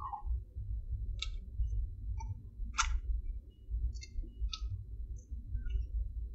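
A man chewing a bite of a chicken sandwich with fried pickle chips close to the microphone: scattered wet mouth clicks and a few sharp crunches, four of them standing out, over a low rumble.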